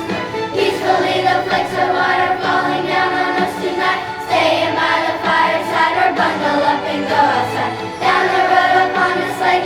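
A student choir singing a holiday song, with sustained notes in several phrases.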